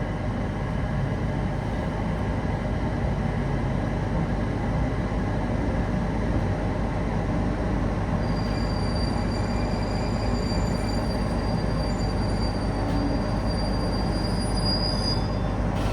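Passenger train running, heard from inside the car: a steady rumble of wheels on rail, with a faint high squeal coming in about halfway.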